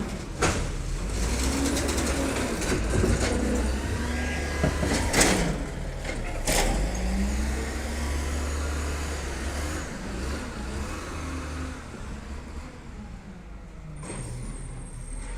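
Garbage truck running, its engine note rising and falling, with a few sharp bangs, the loudest about five seconds in.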